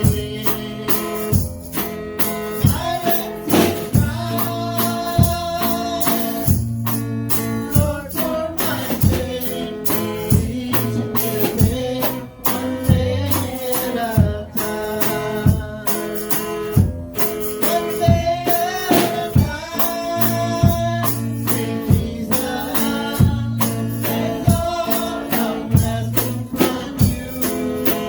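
Live worship band playing a song with a steady drum beat, bass, tambourine and a voice singing the melody.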